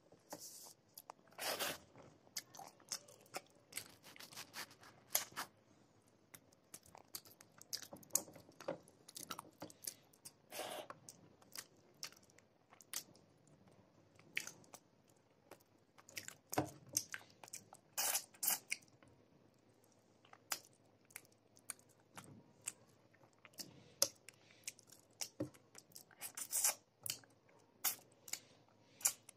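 Close mouth sounds of a person eating by hand: chewing and crunching on crisp morsels of food, in irregular clicks and crackles with a few louder crunches.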